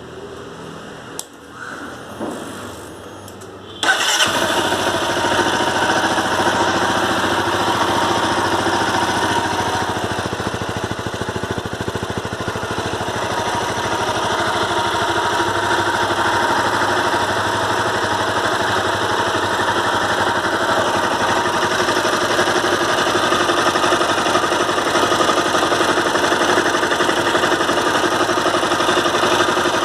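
Honda CBR250R single-cylinder engine starting about four seconds in after a few faint clicks, then running steadily. The owner complains of a terrible engine sound that a service centre blames on the crankshaft.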